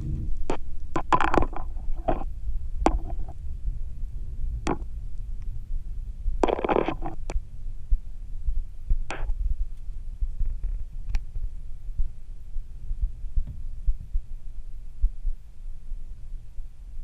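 Robinson R22 two-blade main rotor winding down under the rotor brake, a low throbbing rumble. Sharp clicks and knocks come through now and then, most in the first few seconds.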